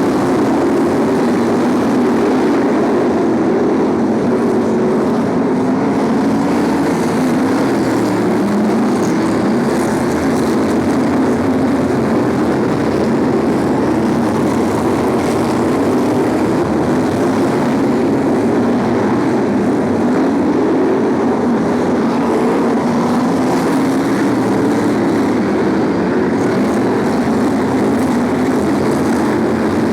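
A pack of BriSCA F1 stock cars racing, their V8 engines making a loud, continuous drone that wavers up and down as the cars lap.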